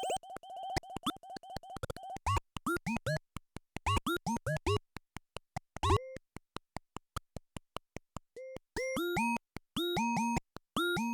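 Nord Drum 3P synthesized drum kit playing a simple rhythm pattern: fast, clicky hits, then pitched electronic toms and drums whose pitch sweeps quickly downward. The kit's sound changes about two seconds in and again near eight seconds as the presets switch.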